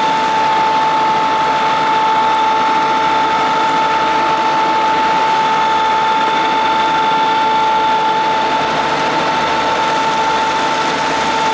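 Madvac rider vacuum's Kubota D1105 three-cylinder diesel running steadily, with a steady whine over the engine noise.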